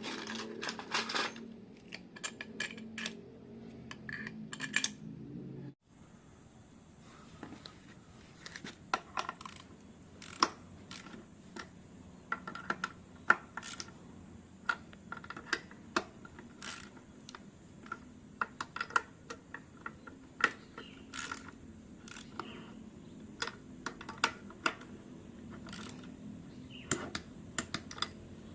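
Metal engine parts and hand tools clicking and clinking in irregular sharp taps while a Honda CB150R engine is assembled by hand. A low steady hum lies under the first six seconds and cuts off suddenly.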